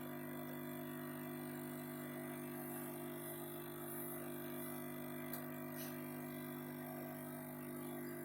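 Steady low electrical hum with a couple of faint clicks about five to six seconds in.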